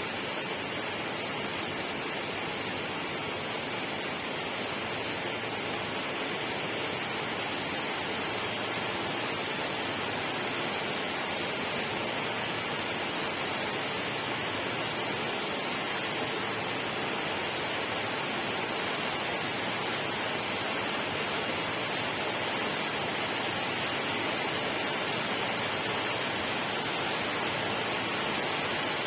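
Steady, even rush of water with no breaks or distinct drops.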